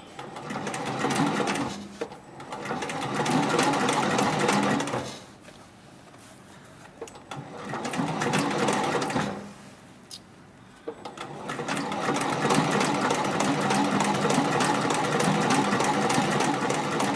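Heavy-duty industrial ornamental-stitch sewing machine stitching, the needle strokes coming in a quick even run. It runs in three spells with two brief stops, the last and longest starting about eleven seconds in.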